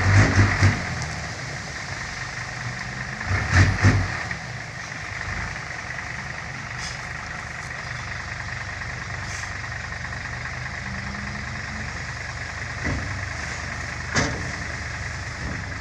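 Six-wheel dump truck engine idling steadily, with two short louder surges, one at the start and one about four seconds in, and a couple of light knocks near the end.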